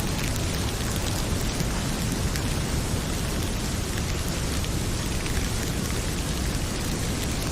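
Heavy rain pouring steadily, with a deep low rumble under it and faint scattered crackles from a wood fire.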